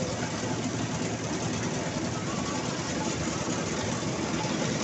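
Mahindra 275 XP Plus tractor's diesel engine running steadily.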